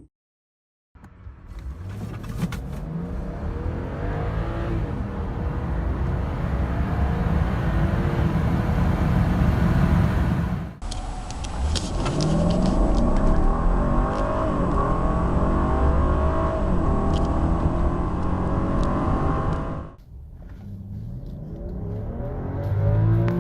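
BMW F01 7 Series cars accelerating hard in three back-to-back clips: in each, the engine note rises through the revs and drops back at each upshift. The sound cuts abruptly from one car to the next twice.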